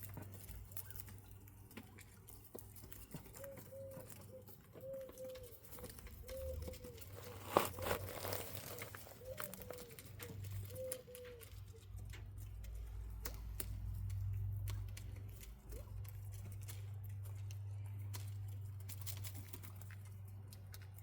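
Bobwhite quail giving soft, short peeping calls, repeated in little runs, over small clicks and rustles of birds pecking and scratching about, with one louder rustle about seven seconds in. A steady low hum runs underneath.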